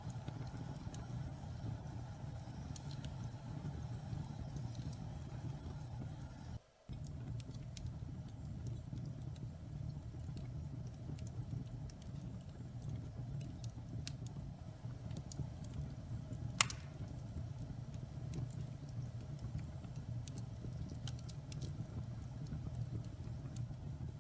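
Wood fire burning in a fireplace: a steady low rumble of flames with scattered small crackles and one sharper pop past the middle. The sound drops out for a split second about seven seconds in.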